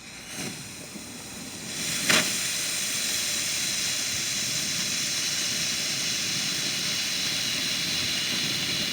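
A firework fizzing: two soft pops, then from about two seconds in a steady, loud hiss of burning composition that carries on.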